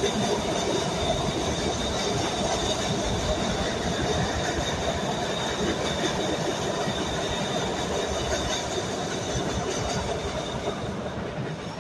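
MBTA Red Line subway train crossing an elevated bridge: a steady rumble of wheels on rails with a high, steady whine over it. It begins to die away near the end.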